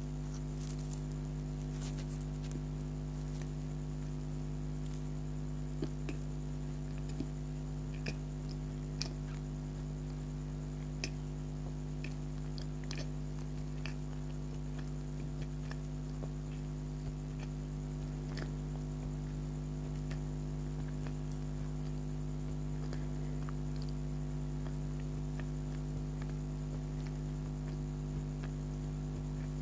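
Quiet chewing of a blueberry donut, with scattered small mouth clicks and smacks every second or so, over a steady low electrical hum.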